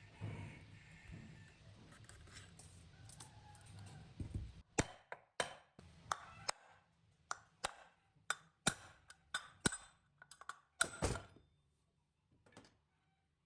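A run of a dozen or more sharp knocks and clinks, irregularly spaced, as a tool works on metal ceiling-fan parts; some strikes ring briefly. The knocks start about four and a half seconds in and stop near the end, after a low steady hum.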